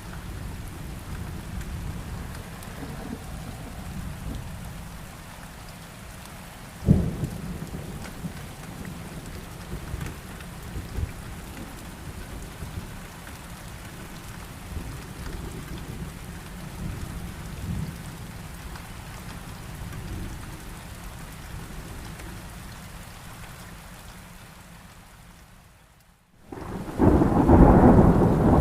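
Thunderstorm: rain with low, rolling thunder, and a sharp thunderclap about seven seconds in. Near the end the sound dips briefly to almost nothing, then comes back louder with heavier rain and thunder.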